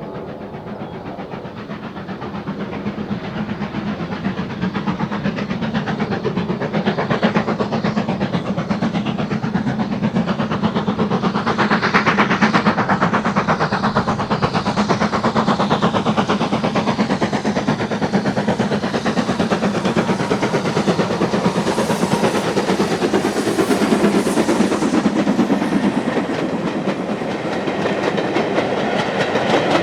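A train running on the line, getting louder over the first several seconds, with a fast, even rhythm of wheel-on-rail noise; the sound turns brighter for a few seconds a little over 20 seconds in.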